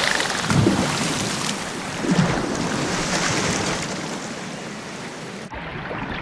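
Sea sounds: waves washing and water splashing, which turn suddenly duller about five and a half seconds in.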